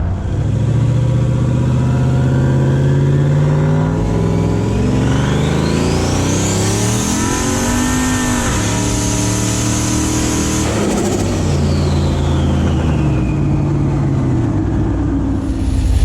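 A vehicle engine accelerating, its pitch climbing steadily for several seconds together with a high whine that rises and then holds. About two-thirds of the way through the revs drop off sharply, and the whine sinks away as the engine slows.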